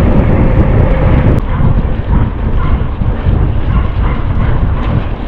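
Loud, gusty wind rumble buffeting the microphone of a camera carried on a moving bicycle, with a faint steady hum that stops about a second and a half in.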